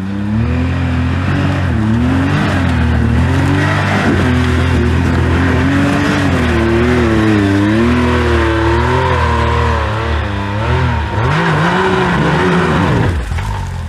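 Side-by-side UTV engine working up a steep trail climb, its pitch rising and falling as the throttle is worked, with a sharp rev up and back down near the end.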